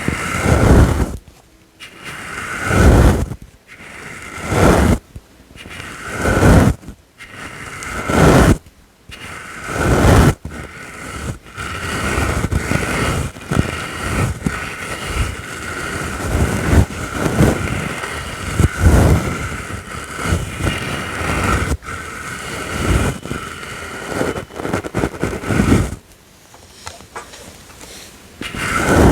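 Soft brush strokes sweeping back and forth: separate swishes every second or two at first, then near-continuous brushing through the middle, and a quieter stretch with a last stroke near the end.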